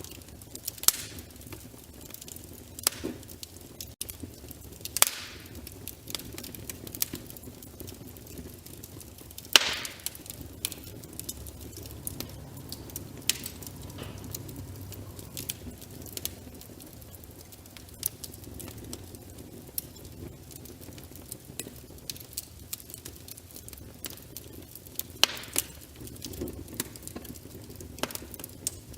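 Wood fire crackling: irregular sharp pops and snaps over a steady low rumble of flames, the loudest pop about ten seconds in.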